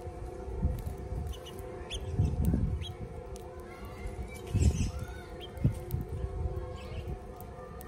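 Small birds chirping in short, scattered calls, mostly in the middle few seconds, over a steady low hum. A few soft low thumps are also heard.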